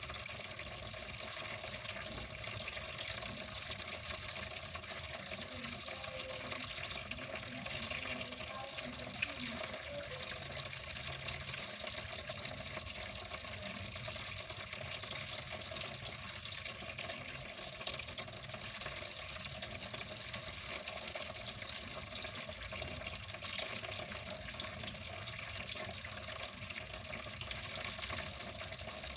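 Water flowing steadily in an unbroken stream, splashing evenly without pause.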